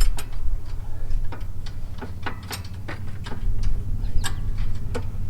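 Irregular sharp metal clicks and taps, two or three a second, from a washer and retaining clip being fitted onto a mower deck mounting pin, over a low steady hum.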